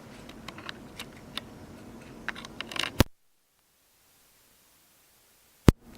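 Small handling clicks and taps, then a sharp pop as the lavalier mic's plug goes into the camera's mic input. The audio drops to dead silence for about two and a half seconds, then a second pop, and faint hiss with clicks returns as the Audio-Technica ATR3350 lavalier system comes on.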